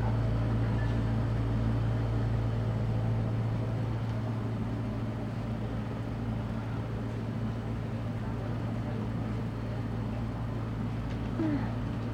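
Boat engine idling with a steady low drone while the ferry waits at the pier.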